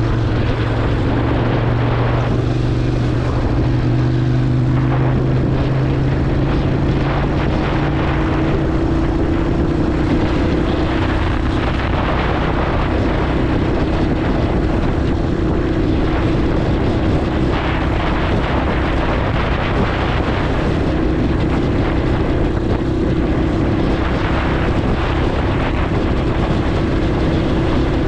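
Motorcycle engine running at a steady cruise under wind rush on the microphone, a continuous drone whose pitch rises slightly about nine seconds in and then holds.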